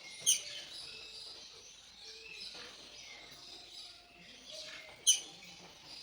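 Many birds chirping together, with two short, sharp, loud calls, one just after the start and one near the end.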